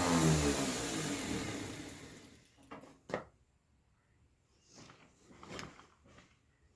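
Power tool motor spinning down after being switched off, its hum falling in pitch and fading out over about two and a half seconds, followed by a sharp click and a few faint knocks of handling.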